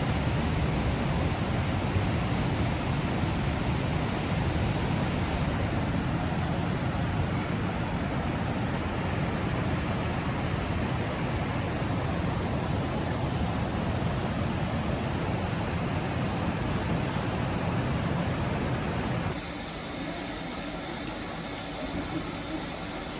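Steady low rumble and hiss of a moving vehicle in motion, changing abruptly about 19 seconds in to a quieter, thinner rushing noise.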